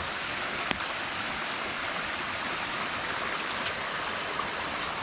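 Steady rush of a flowing stream, with a few sharp snaps from burning firewood scattered through it.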